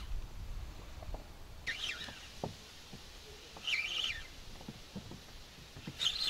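A bird calling three times, about two seconds apart, each a short high chirping phrase. A few faint ticks come between the calls.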